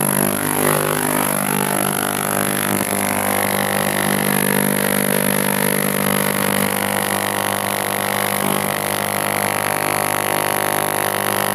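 A 3-litre ultrasonic cleaner running: a steady buzzing drone with a thin high whine above it.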